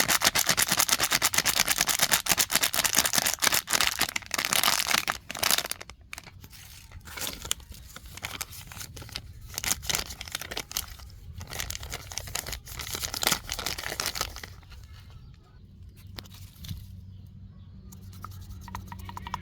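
Plastic trash crinkling and rustling as it is handled and gathered. It is dense and continuous for about the first five seconds, then thins to scattered crackles.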